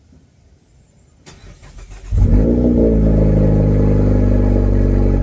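A 2024 Mazda 3's 2.5 L four-cylinder being started through a Borla axle-back exhaust: a click and about a second of starter cranking, then the engine catches about two seconds in, flares briefly and settles into a loud, steady idle.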